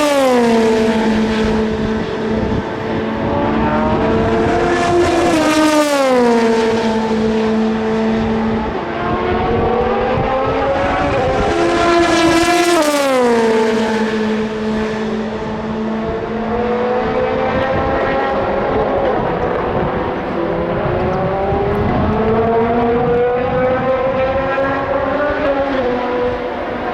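Endurance race cars at full speed on a long straight, engines held at a steady high note. Two cars pass close by, about five and twelve seconds in, the pitch of each dropping sharply as it goes past, while other cars run on underneath.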